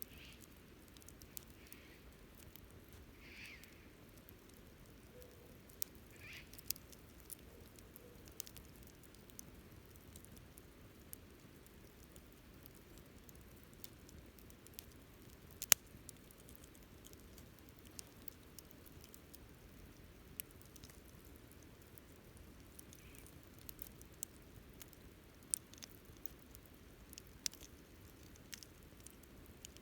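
Wood fire burning quietly, with scattered small crackles and one sharp pop about halfway through.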